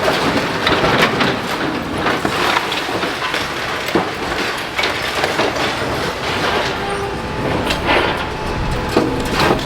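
Building demolition: an excavator at work, with continual clattering, crunching and knocking of broken masonry and rubble over steady machinery noise.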